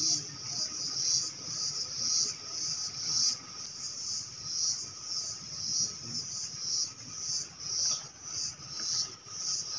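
Insect calling: a high-pitched buzz pulsing in an even rhythm, about one and a half pulses a second.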